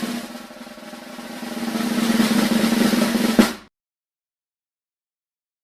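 Drum roll sound effect: a snare drum roll that grows steadily louder and ends in a single sharp hit about three and a half seconds in, then stops.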